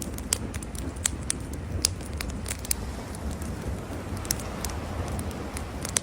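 Wood campfire crackling, with irregular sharp pops and snaps several times a second, over a steady low rumble.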